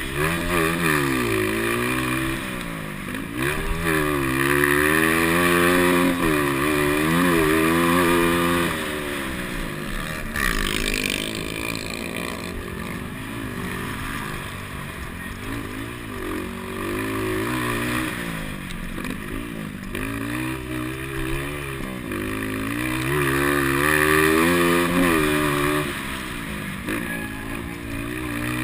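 200cc motocross motorcycle engines racing, revving up and dropping again and again as the riders shift gears and take jumps and corners. The engines are loudest twice, early and again near the end, as bikes pass close by.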